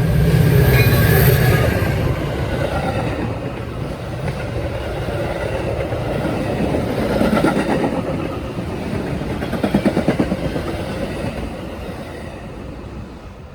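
Metra express commuter train passing through at speed without stopping. Its wheels clatter rhythmically over the rail joints, strongest past the middle, and the sound fades away near the end.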